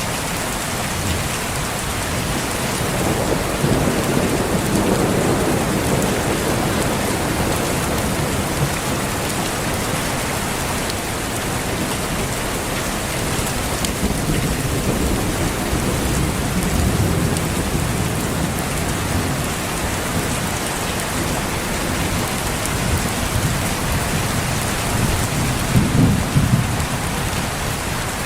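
Steady rain falling with rolls of thunder: one rumble swells about four seconds in, and another near the end.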